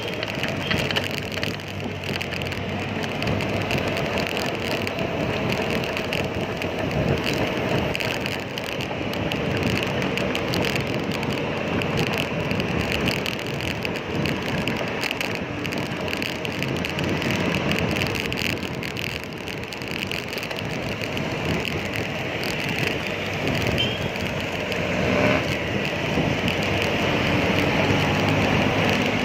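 Steady road and traffic noise from a moving bicycle, with passing motor vehicles and a continuous rushing hiss.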